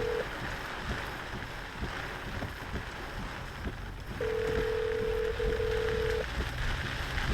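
Telephone ringback tone over the car's speakers: a steady tone cuts off just after the start and sounds again for about two seconds from about four seconds in, with a brief break in it. Underneath is a steady hiss of rain and wet road noise inside the car.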